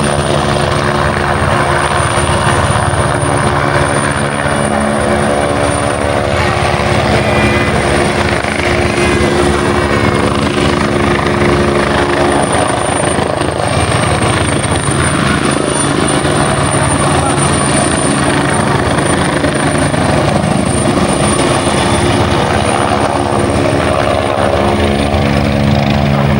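Helicopter hovering: continuous, loud rotor and engine noise with a steady high whine, while lower engine tones fade in and out.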